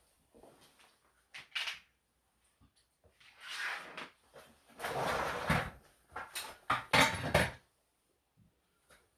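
Irregular knocks, clicks and short scraping sounds of air-conditioner parts being handled during cleaning, with a few longer rushing scrapes in the middle and quiet gaps between.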